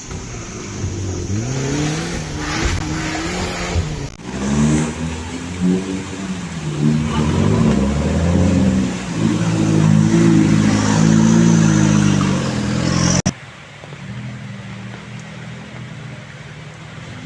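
Off-road vehicle's engine revving up and down repeatedly under load, with abrupt breaks. About thirteen seconds in it drops to a steadier, quieter running.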